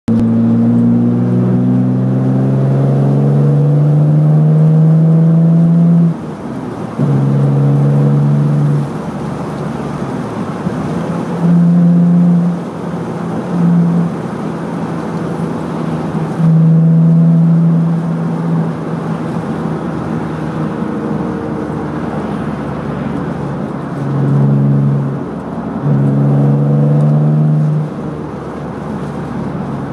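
BMW M3 engine heard from inside the cabin, accelerating hard in several bursts with its note rising in pitch through each, and dropping back to a quieter cruising note with road noise between bursts.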